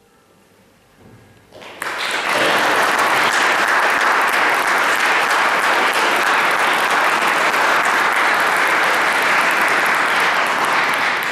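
A brief hush, then an audience breaks into loud, sustained applause a little under two seconds in.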